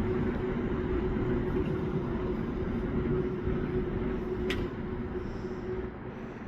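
A steady machine hum with one held tone, which drops away about six seconds in; a single sharp click sounds midway.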